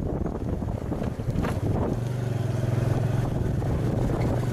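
Wind rushing over the microphone of a camera carried along by a cyclist, a steady low rumble that gets stronger about halfway through.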